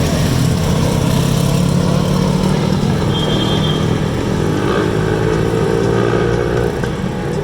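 Motorcycle engines running in street traffic, one engine's pitch rising slowly over the second half as it accelerates.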